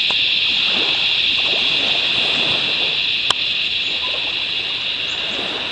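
A steady, loud high-pitched buzzing drone that does not change over a fainter rushing background, with a single sharp click about three seconds in.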